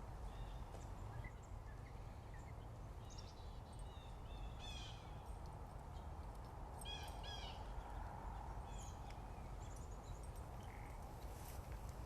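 Wild birds singing and calling in short chirps and quick trills, several voices scattered through, over a steady low rumble.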